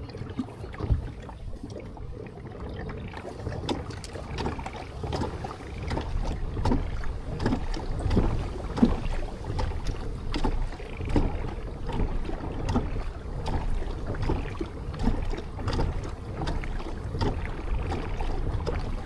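A kayak being paddled: the paddle blades dip and splash in the water, with irregular knocks over a steady low rumble.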